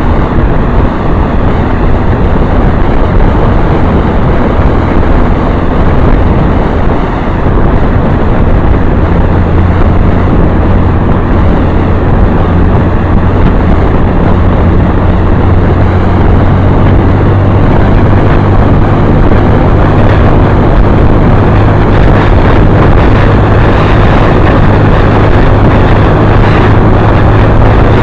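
Motorcycle on the move: a loud, steady engine drone with a constant low tone, under heavy wind and road rush.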